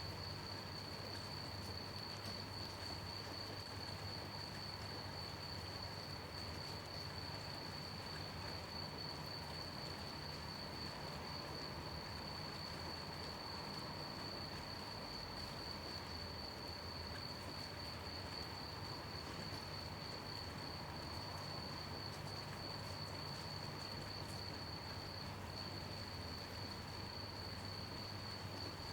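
Crickets chirping in one unbroken, high, finely pulsing trill over the even hiss of gentle rain.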